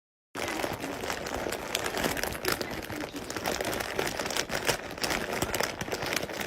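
Dense crinkling, crackling noise full of small clicks, starting abruptly a moment in and running on.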